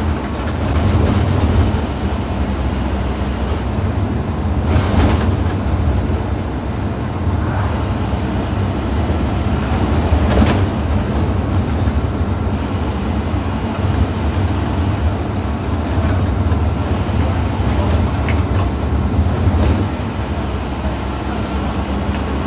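Scania N230UD OmniCity double-decker bus under way, its engine giving a steady low drone over road noise. There are brief rattles about five and ten seconds in.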